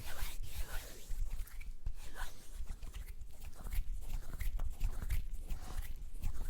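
Close-microphone ASMR mouth and hand sounds: irregular short clicks, smacks and breathy, whisper-like hisses over a low rumble.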